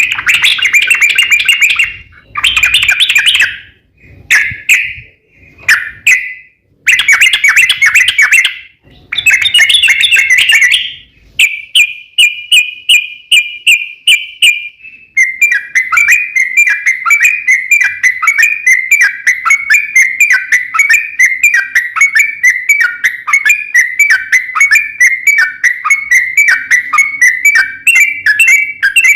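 Yellow-vented bulbul singing: several short chattering phrases with gaps between them, then a long unbroken rolling series of rapid repeated notes from about halfway in.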